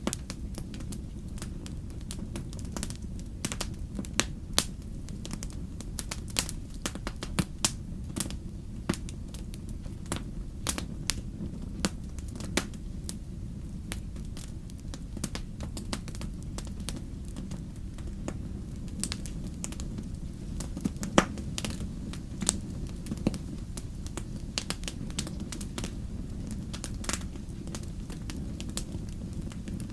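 Wood fire burning in a fireplace: a steady low rumble of flames with frequent sharp pops and crackles at irregular intervals. The loudest pop comes about 21 seconds in.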